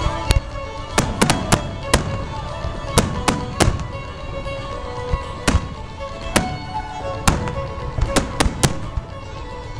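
Fireworks bursting in sharp, irregular bangs, sometimes several in quick succession, over steady music.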